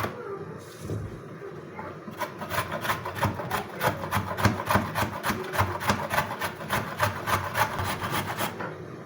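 Carrot being grated on a hand grater: a steady run of rasping strokes, about five a second, starting about two seconds in and stopping shortly before the end.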